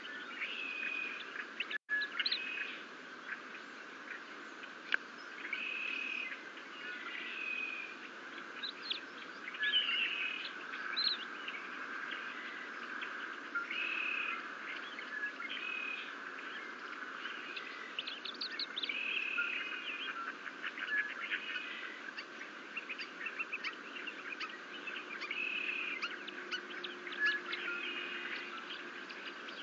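Birds chirping and calling, with short high notes and repeated phrases every second or two over a steady outdoor background hiss; the sound cuts out for an instant about two seconds in.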